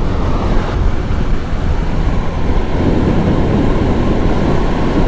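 Wind rushing over the rider's microphone on a motorcycle at highway speed, over the steady rumble of the engine and road.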